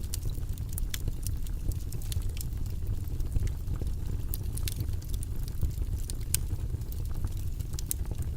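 Steady, rumbling white-noise track, its energy mostly low, with scattered faint sharp clicks throughout.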